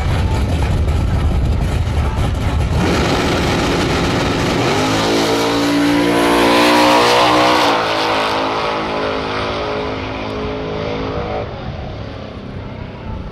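Drag-racing car engine revving up: a loud rumble, then from about four seconds in a pitch climbing for a few seconds and holding before it dies away near the end.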